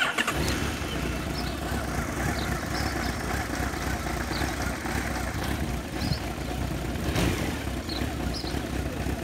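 Honda CB1300 SC54's 1284 cc inline-four engine catching on the electric starter right at the start, then idling steadily.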